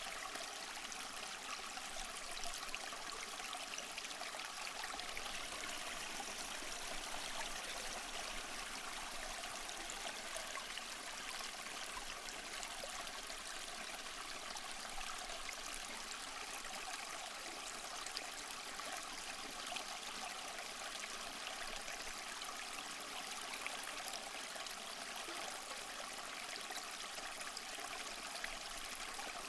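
Small waterfall splashing and trickling over mossy rocks, a steady light rush of falling water with small splashes, without pauses.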